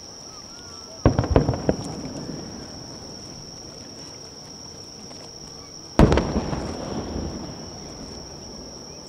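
Aerial firework shells bursting: a cluster of quick booms and cracks about a second in, then one big boom about six seconds in that echoes away over a couple of seconds.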